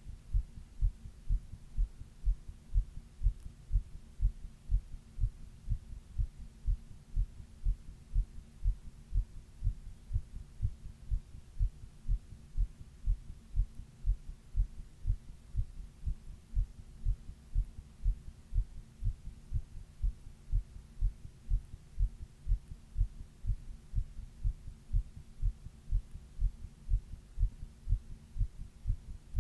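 A person's heartbeat heard close up at rest: a steady, regular lub-dub of low, dull thumps, about two a second, with a faint steady hum underneath. It is the heart of someone running a 102 °F fever.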